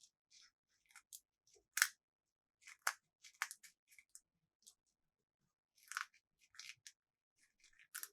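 Close-up unboxing handling sounds: scattered soft crinkles and clicks, with sharper crunches about two, three and six seconds in.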